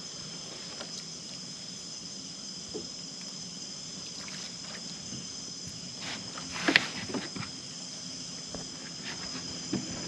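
Steady high chorus of night insects, crickets among them. A few sharp knocks and clatters stand out about two-thirds of the way in.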